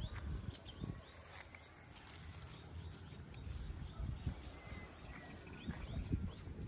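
Short bird chirps repeating over a low rumble, with a few soft thumps.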